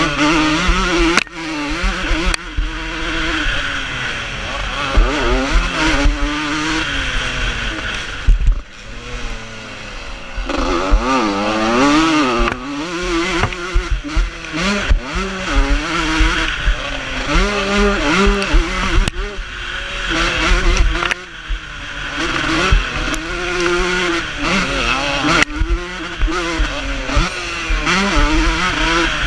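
Vintage motocross bikes racing, several engines at once revving up and dropping back again and again as they rise and fall through the gears.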